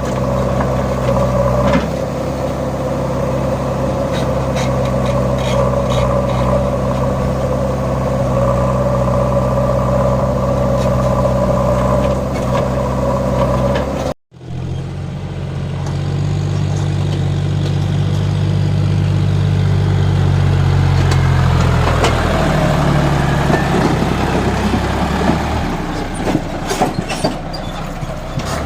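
John Deere 5050D tractor's three-cylinder diesel engine running steadily while pulling a loaded trolley. It cuts off abruptly about halfway through, then comes back with the engine note rising and, later, dropping back.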